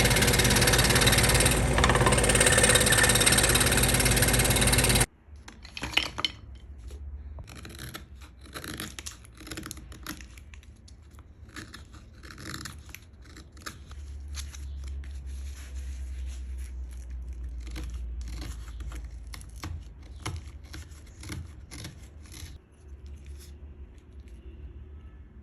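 A power tool running loudly and steadily, cut off abruptly about five seconds in, followed by quiet, irregular scraping and clicking of hand work on wood.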